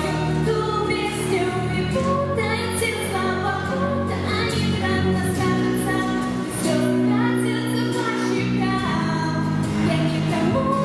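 A woman singing a pop song over instrumental accompaniment, her melody gliding between held notes above a steady bass line.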